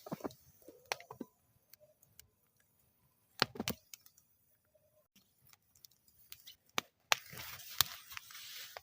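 Wood fire crackling in a metal fire bowl in frosty air: sparse sharp pops with quiet gaps between them, a quick cluster of loud pops about three and a half seconds in, and a steady hiss under denser crackling from about seven seconds in.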